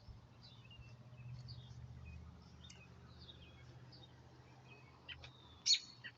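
Small birds chirping: a run of short, high chirps and quick sweeps, with one sharp, louder chirp near the end, over a faint low hum.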